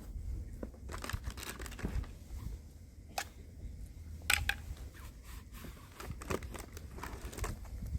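Scattered clicks, rustling and crinkling of things being handled, over a low steady rumble.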